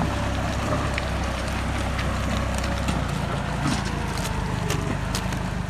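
Deutz-Fahr 4055 tractor's diesel engine running steadily, with scattered clicks and rattles over it. Its low note shifts about halfway through.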